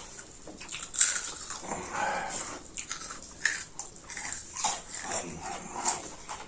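People chewing and eating a meal of curry, rice and chips, with irregular wet smacks, clicks and crunches.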